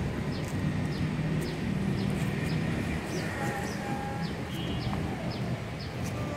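Outdoor ambience: a short, high, falling chirp repeated about twice a second, most likely a small bird calling, over a steady low rumble.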